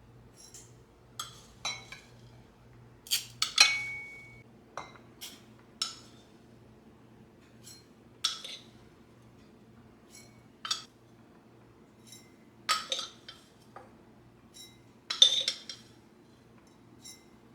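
Glass items clinking and knocking as they are handled and set down, a dozen or so separate clinks at irregular intervals; one rings briefly with a clear tone. A faint steady hum runs underneath.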